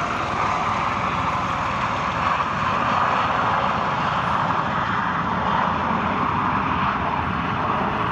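Aircraft engine noise: a steady, loud sound with no clear pitch, swelling slightly about three seconds in.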